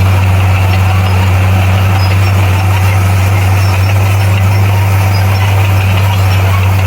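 Heavy diesel engine of earth-moving machinery running steadily, a loud, unchanging low hum.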